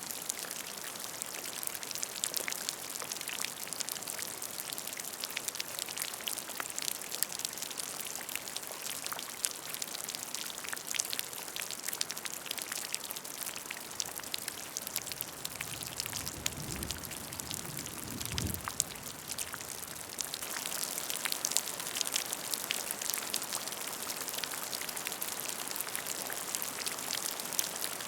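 Rain falling into a puddle: a dense, steady patter of many small drops splashing on water. A brief low rumble comes a little past the middle.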